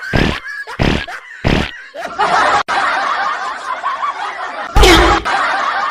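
Laughter sound effect: a crowd of people laughing and snickering. It is preceded by a few short sharp bursts in the first second and a half, and a loud short hit comes near the end.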